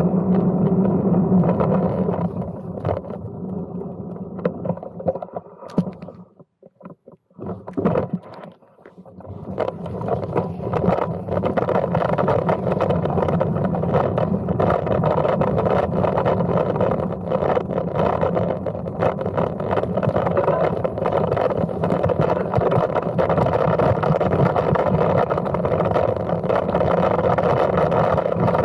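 Steady rumble of a ride on a Brompton folding bike, tyre and wind noise on the microphone. It dies away almost to nothing for a few seconds about six seconds in, then picks up again and runs steadily.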